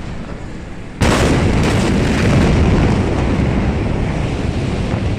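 A large explosion: a sudden loud blast about a second in, then a heavy rumble of noise that carries on for several seconds and slowly dies away. This is the blast of the stored ammonium nitrate at Beirut's port.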